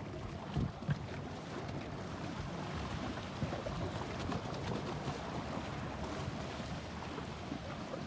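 Wind buffeting a cell phone's microphone: a steady rushing noise with a couple of short low thumps about half a second to a second in.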